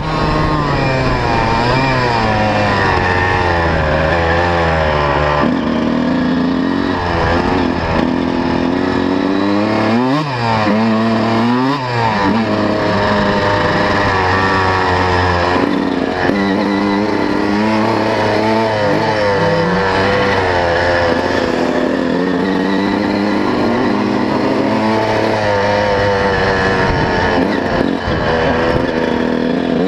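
125 cc two-stroke motocross bike engine being ridden hard, its pitch rising and falling again and again as the throttle is worked, with quick rev sweeps about 10 and 12 seconds in.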